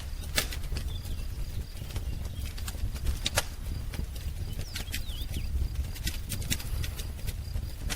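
Wood fire crackling, with frequent sharp pops and snaps over a low steady rumble. A few faint, short bird chirps come through high above it, a pair of them about five seconds in.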